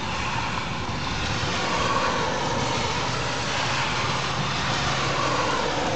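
Steady rain falling during a thunderstorm, an even hiss that grows a little louder at the start and then holds.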